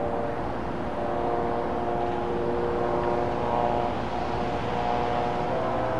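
Train running by: a steady low rumble with several whining tones that shift up and down in pitch.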